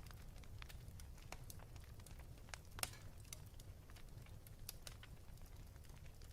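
Wood fire crackling in a fireplace: scattered, irregular snaps and pops, with one louder pop about halfway through, over a low steady rumble.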